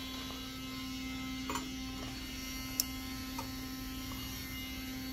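Household furnace humming steadily at one low pitch, with a few faint ticks. It is a fault that three repair attempts have not cured.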